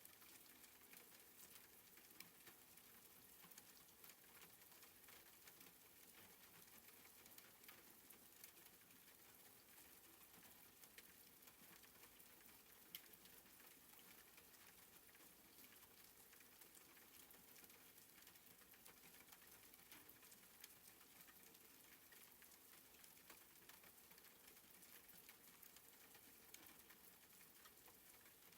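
Faint, soft rain: a steady hiss with a light patter of many small drops.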